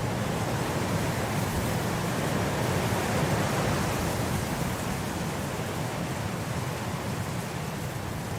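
Snowstorm wind blowing in a steady rush that swells a little about three seconds in, then eases.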